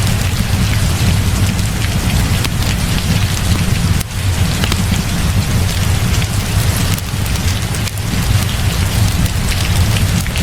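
Heavy rain mixed with a crackling wood fire: an even hiss of rain over a steady low rumble, with scattered sharp crackles.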